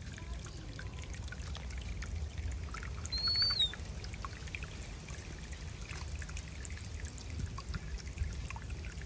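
Water pouring and trickling steadily, with small splashes. About three seconds in, a single short high whistled call rises and then falls.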